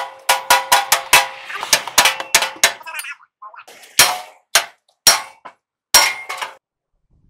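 Repeated sharp metal-on-metal strikes that ring: a quick run of about a dozen blows over three seconds, then slower single blows about half a second to a second apart, stopping shortly before the end.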